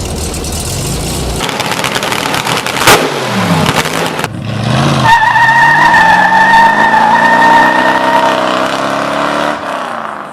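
A car engine revving and then accelerating hard, its pitch climbing, under a steady high tire squeal, with a sharp crack about three seconds in; the sound cuts off abruptly at the end.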